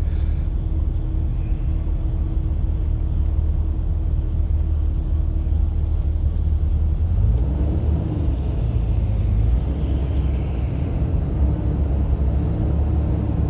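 Car being driven, heard from inside the cabin: a steady low rumble of engine and tyres on the road, with a faint hum that fades about halfway through.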